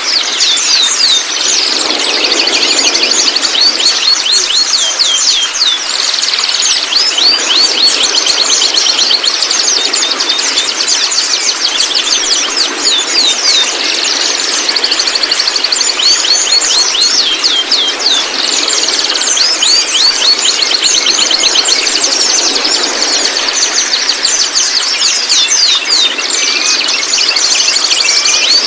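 White-rumped shama calling and singing: fast runs of sharp, high, falling notes and rattling trills, repeated in bursts with short gaps, with a steady high buzzing note at times.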